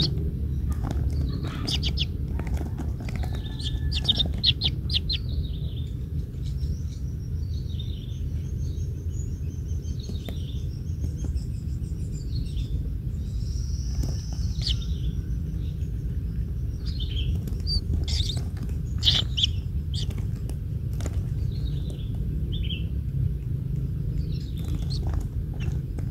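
Birds chirping, with many short calls and a few brief whistles scattered throughout, over a steady low rumble.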